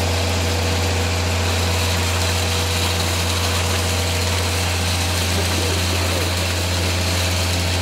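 Concrete pump truck's diesel engine running steadily, a constant low hum with no change in speed.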